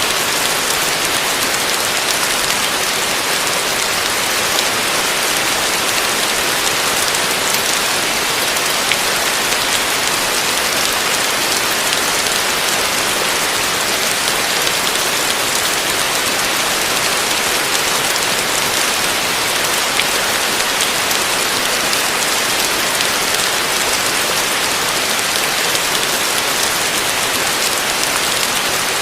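Heavy rain falling steadily: a dense, even hiss of countless drops that neither swells nor breaks.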